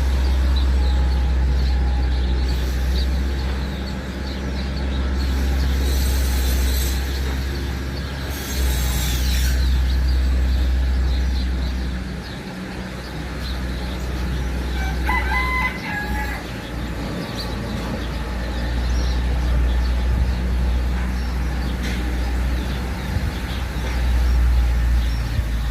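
Bird calls, including one short pitched call about halfway through that is fowl-like, over a steady low rumble.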